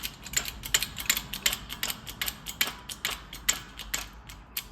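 Metal clicking from a hand ratchet, several clicks a second, while a carrier bearing is pressed onto the differential carrier of a Sterling 10.5 axle with a bearing race press disc.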